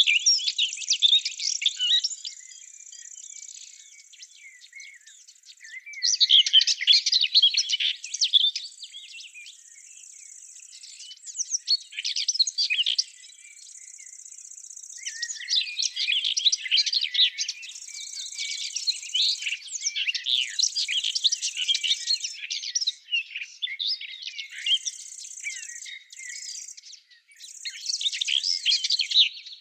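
Songbirds singing: bouts of rapid, high-pitched chirping and twittering, several seconds each, with short pauses between. A steady high-pitched sound that comes and goes lies underneath.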